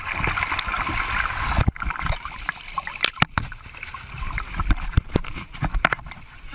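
Water sloshing and splashing, with many sharp knocks and bumps of handling noise on a handheld camera's microphone. The water noise is strongest in the first two seconds, then fades.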